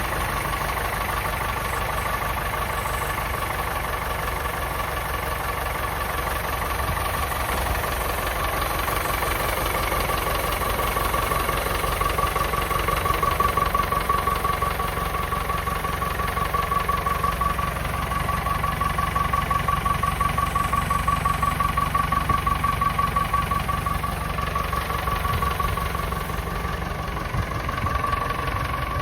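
Nuffield 10/60 tractor engine idling steadily, with an even pulsing beat.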